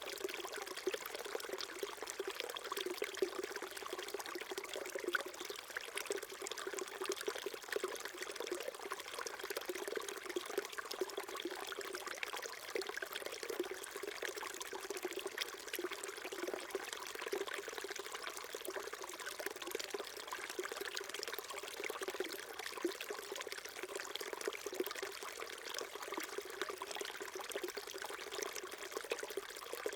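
Small mountain stream trickling and babbling steadily over rocks.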